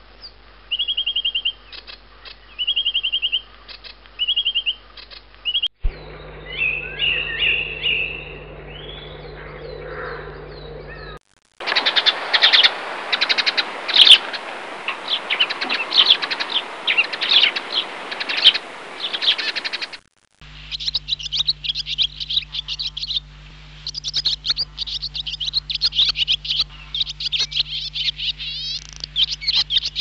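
Songbirds chirping and singing in several different recordings joined one after another. First come short, evenly spaced trills, then twittering. From about 11 to 20 seconds in there is a louder, dense chorus of chirps over a hiss, and after that quick repeated chirps and fast twitters.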